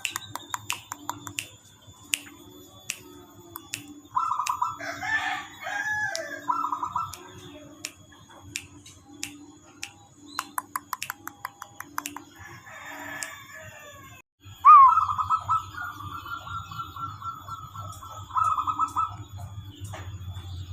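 Birds calling: a run of short clicking notes and buzzy trills, with a domestic chicken calling about five seconds in and a sharp rising-and-falling call near the middle.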